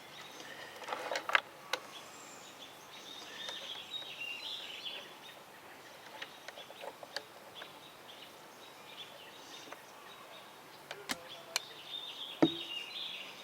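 Saw chain and a rivet spinner being handled and set up for the next rivet: a few sharp metallic clicks and taps, spaced irregularly, the loudest about a second in and near the end.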